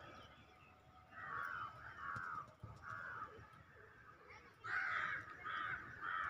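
Harsh bird calls, each about half a second long. A run of three comes about a second in and another run of three near the end.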